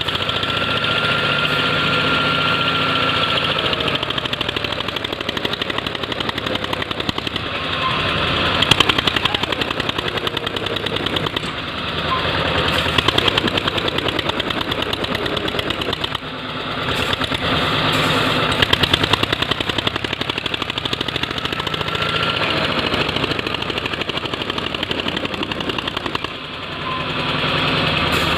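Eicher 242 tractor's diesel engine running with a rapid, even knocking beat, its pace and loudness rising and easing off several times.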